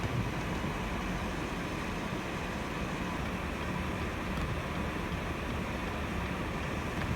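Steady rushing traffic noise.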